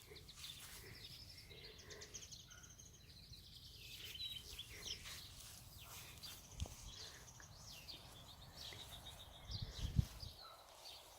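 Small birds twittering in runs of quick high chirps, over a steady low rumble of wind on the microphone, with a couple of soft thumps.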